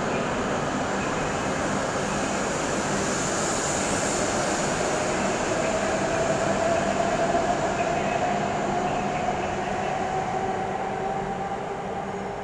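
E7 series Shinkansen train accelerating out of the station past the platform: steady rolling and running noise with a rising motor whine in the middle, then fading as the last car passes near the end.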